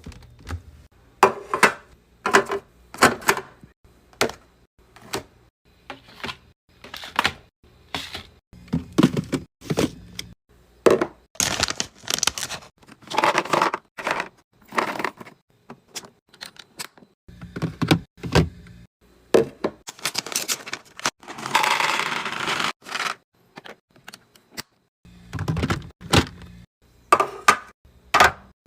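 Containers and groceries being handled and set down while restocking a fridge: a long run of sharp clicks, knocks and clatters, broken by a few longer rustling stretches around the middle.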